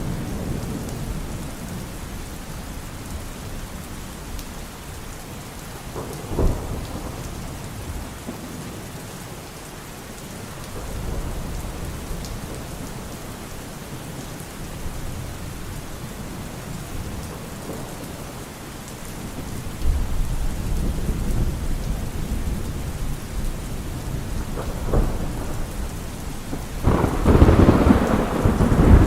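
Steady rain with thunder. There is a short sharp crack of thunder about six seconds in, low rumbling that builds from about twenty seconds, and the loudest peal of rolling thunder near the end.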